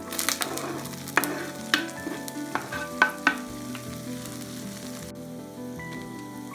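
Chopped garlic and red onion sizzling as they hit hot oil in a pan. The hiss is strongest in the first second or so, with a few sharp knocks of the wooden board against the pan over the next couple of seconds.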